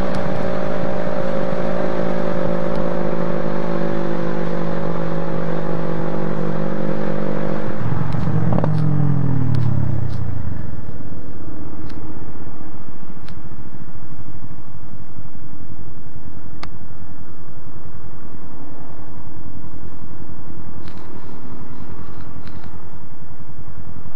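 Motorcycle engine running at a steady speed under a rush of wind and road noise. About eight seconds in its pitch drops as the engine slows, and after that mostly the steady rush remains, with a few sharp clicks.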